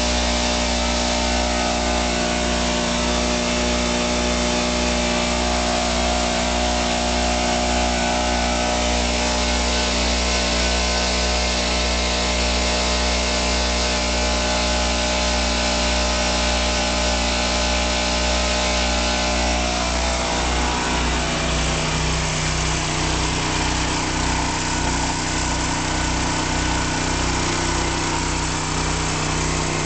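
Standby generator engine running steadily under the house load. About two-thirds of the way through its tone shifts, with a low pulsing beat after.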